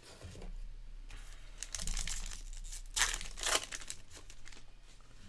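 A sports card pack's wrapper being torn open and crinkled by hand, in two stronger bursts of rustling.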